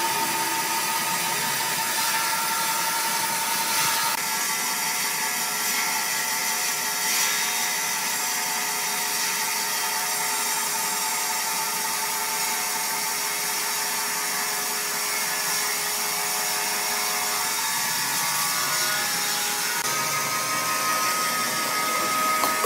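Sawmill machinery running steadily: a constant mechanical noise carrying several held whining tones, with a slight change in pitch a few times.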